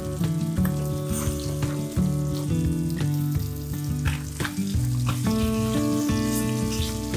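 Capelin frying in hot vegetable oil in a frying pan, sizzling, with a few clicks and scrapes of a wooden spatula lifting the fish out. Instrumental background music with a melody of held notes plays over it.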